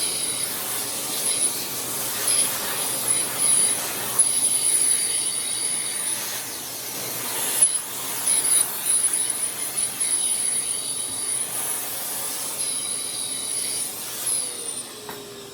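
Festool OF 1400 plunge router with a downcut spiral bit cutting a groove in plywood, with a steady high whine; near the end it is switched off and winds down with a falling tone.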